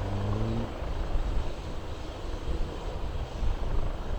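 Leonardo AW139 twin-turboshaft helicopter running as it comes in to land, a steady engine and rotor rumble that swells and fades slightly.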